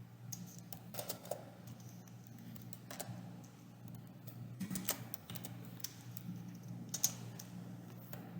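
Typing on a computer keyboard: irregular keystrokes at an uneven pace, over a low steady hum.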